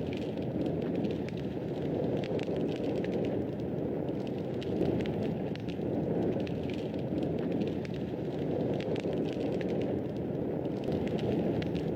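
Fireplace fire burning steadily: a low, even rushing of flames with many small, sharp crackles and pops scattered irregularly throughout.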